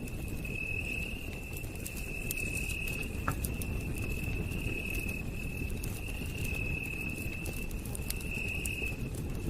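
Campfire crackling, with sharp pops scattered irregularly over a low steady rumble of burning. Behind it a night insect keeps up a high continuous trill that swells and fades about once a second.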